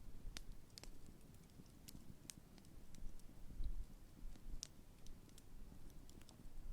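Large wood campfire crackling: scattered sharp pops and snaps, about a dozen, over an uneven low rumble of the flames.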